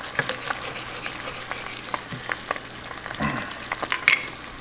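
Butter sizzling and crackling around an egg frying in a 12-inch Stargazer cast iron skillet: a steady hiss with scattered pops, broken by a couple of brief knocks about three and four seconds in.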